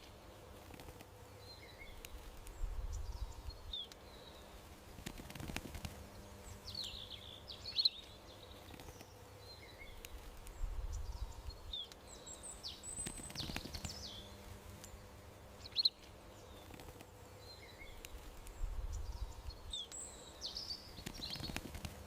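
Small garden birds chirping in short, scattered calls over faint steady background noise, with a soft low rumble three times, about eight seconds apart.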